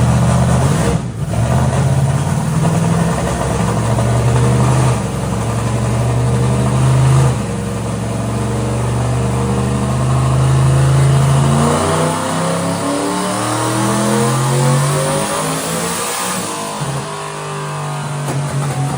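Twin-turbocharged NASCAR truck V8 running on a chassis dyno. It holds steady revs with a few short breaks, as between gear changes, then makes a full-throttle pull, its pitch rising steadily for about five seconds before it drops off near the end.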